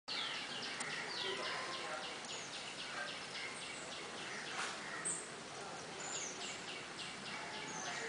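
Birds calling outdoors: a high note repeated rapidly and evenly, about four times a second, pausing midway before starting again, over scattered higher chirps and a steady outdoor hiss.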